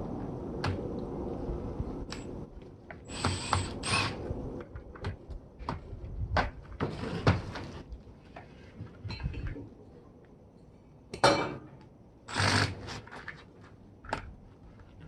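Irregular clicks, knocks and short scraping noises of hand tools and plastic and metal parts being handled as a small household appliance is taken apart for scrap, a few with a brief high squeak.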